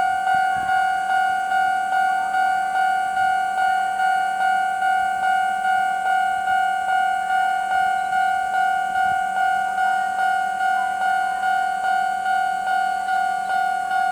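Electronic railway level-crossing warning bell ringing steadily, one repeating ding a little over twice a second.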